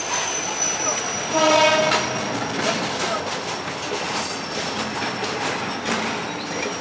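Hopper wagons of a freight train running past close by, wheels clicking and rumbling over the rail joints. A short single horn blast sounds about a second and a half in.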